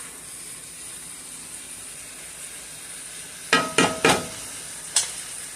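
Cubed beef frying in a pan on high heat, a steady sizzle. Three quick metallic clanks of a utensil against the pan come about three and a half seconds in, and another just before the end.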